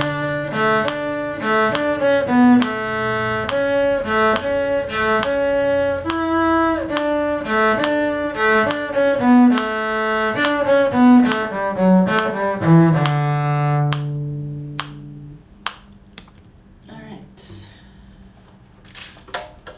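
Bowed strings playing a slow melody of sustained notes, ending about two-thirds of the way through on a long held final note. After that come only a few faint clicks.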